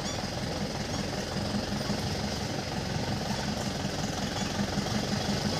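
A vehicle engine running steadily at idle, a low even hum.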